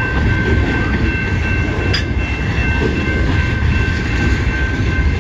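CN freight train rolling past close by: a steady, loud rumble of wheels on rail with a steady high-pitched whine over it, and a single sharp click about two seconds in.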